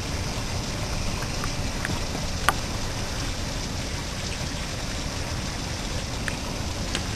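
Heavy tropical-storm rain falling steadily onto soaked ground and puddles, with a few sharp ticks of drops striking. The loudest tick comes about two and a half seconds in.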